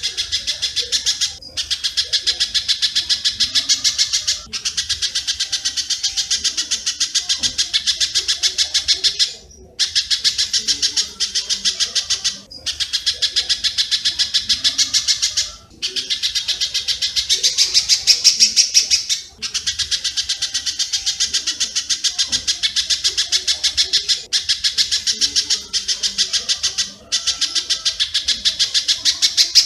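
Recorded bird-song training track of spiderhunter (pijantung) and swiftlet (walet) calls: a fast, dense run of sharp, high chips, many per second. The run comes in phrases a few seconds long with brief breaks between them.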